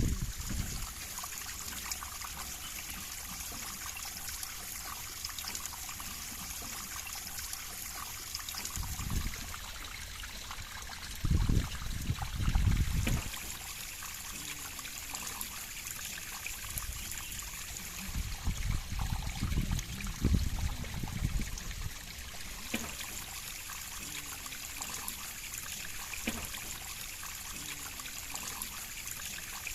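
River water flowing with a steady trickling rush. A few brief low rumbles come and go, about a third of the way in, just before the middle and again around two thirds of the way in.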